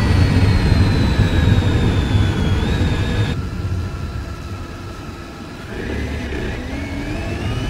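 2003 Mercedes C180 Kompressor's supercharged M271 four-cylinder engine, heard from the engine bay while driving. Its pitch falls steadily as the car slows, the higher whine cuts out suddenly about three seconds in and the engine quietens, then it rises in pitch again from about six seconds in as it picks up speed.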